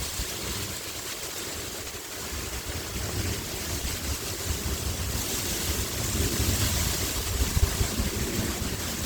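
Sea wind blowing in gusts, buffeting the microphone with a low rumble, with a higher rustling hiss that swells about five seconds in and eases off near the end.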